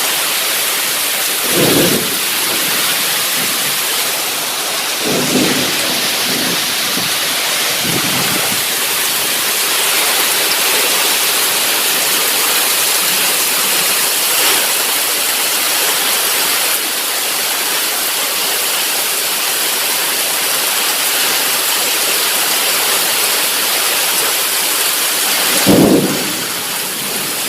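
Heavy rain pouring steadily in a thunderstorm. A few short, low rumbles stand out over the hiss of the rain about two, five and eight seconds in and again near the end.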